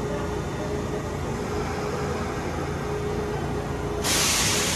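Kintetsu electric train at a station platform giving a steady low hum with a thin steady whine. About four seconds in comes a sudden loud hiss of released air, typical of the train's air brakes.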